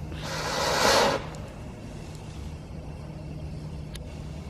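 A lit firework hissing for about a second, its fuse or lift burning, over a steady low hum.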